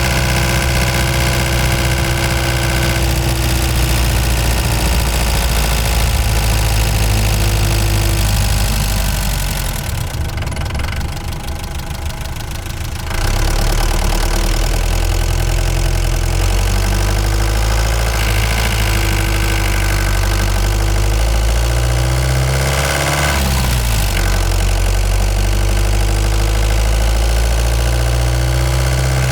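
Ford Transit Mk5 van engine running while driving. It drops quieter for a few seconds about a third of the way in, and its pitch briefly rises and falls near the end.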